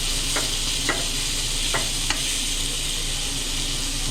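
Chicken pieces frying in hot oil: a steady sizzle, with about four sharp clicks in the first couple of seconds.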